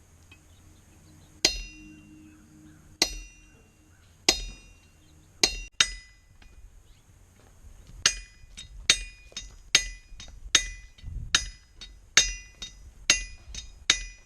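Hammer blows on steel at the anvil, each strike ringing metallically. A few spaced blows come first, then from about eight seconds in a steady run of strikes a little over one a second.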